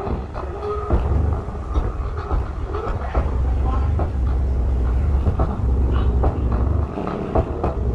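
Subwoofer driven by a homemade transistor amplifier playing loud, deep bass, a near-continuous low rumble with short clicks over it.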